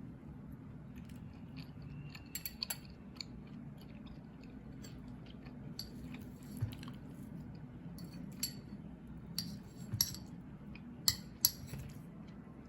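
Close-up eating sounds of fried sticky rice cake (tikoy) being chewed, with scattered sharp clicks, the loudest a quick pair near the end, over a steady low hum.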